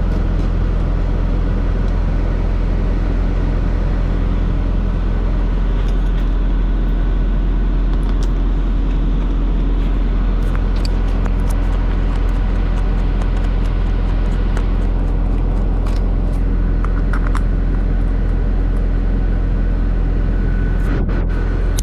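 Ashok Leyland bus diesel engine idling steadily, with scattered light clicks and taps over it.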